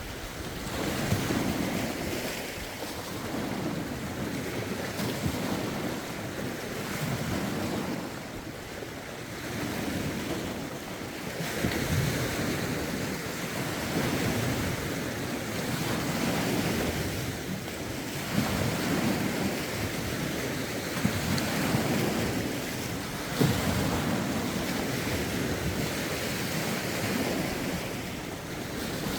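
Waves washing onto a lakeshore, rising and falling every few seconds with occasional sharper splashes. Wind gusts blow on the microphone.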